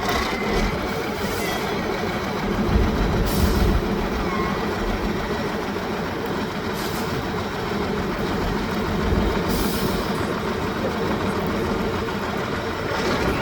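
Heavy off-road trial truck's diesel engine running steadily with a deep rumble, with a few brief hisses about three, seven and ten seconds in.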